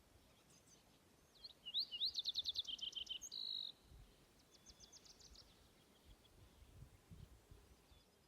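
A songbird singing outdoors: a loud, rapid series of about ten sharp high notes ending in a short buzzy trill, followed a second later by a fainter, similar phrase.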